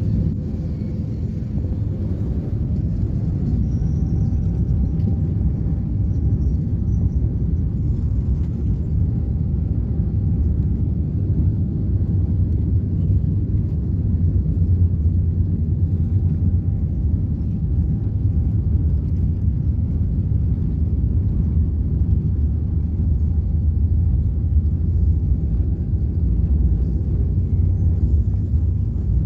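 Jet airliner's cabin rumble during takeoff: a steady, deep rumble of engines and airflow that grows slightly louder, with a faint whine rising in the first few seconds.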